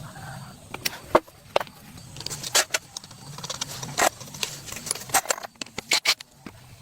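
Irregular sharp clicks and clinks of small hard objects being handled, a dozen or more strikes, unevenly spaced.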